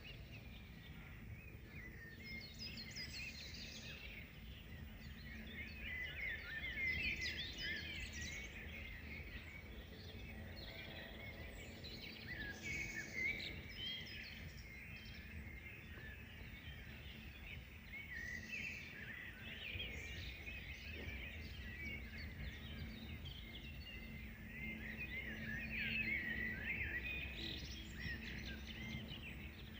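Several songbirds singing and chirping at once in an evening chorus, with overlapping high trills and twitters all through, over a steady low background hum.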